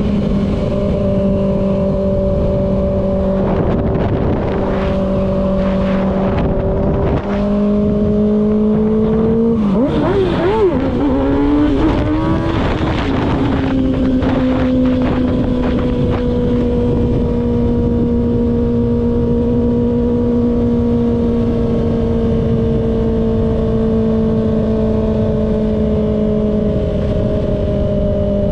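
Kawasaki ZX-6R's inline-four engine running at steady revs while riding. About seven seconds in the sound dips briefly, from about ten seconds in the revs waver up and down for a few seconds, and then they settle into a steady tone that slowly falls in pitch.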